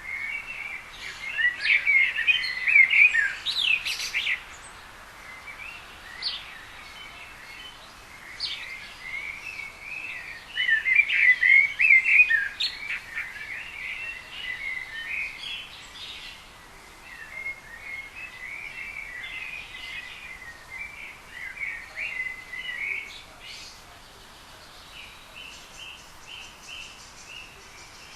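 Small garden birds chirping and twittering in busy bursts, with two loud clusters of rapid chirps, then a run of quieter repeated notes near the end.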